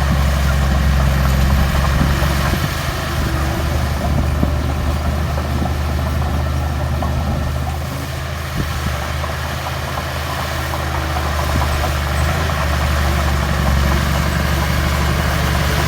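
Heavy diesel engine of earthmoving machinery running steadily at a low, even pitch. It eases slightly about halfway through, then picks back up.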